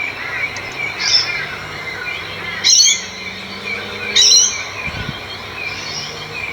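Birds chirping throughout, with two louder, harsh calls about a third and two thirds of the way through.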